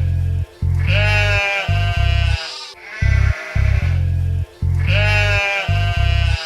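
Sheep bleating over upbeat children's backing music with a steady bass line. The wavering bleats come in groups about every four seconds.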